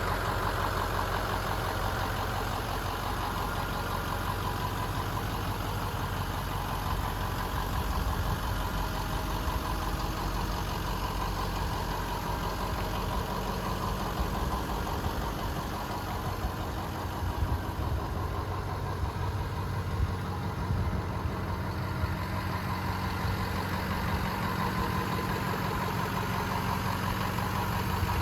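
Ford F-250's 6.0L Power Stroke V8 turbo-diesel idling steadily.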